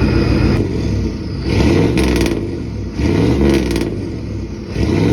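Pickup truck engine running through its newly installed 3-inch exhaust, blipped three times so the exhaust note rises and falls with each rev.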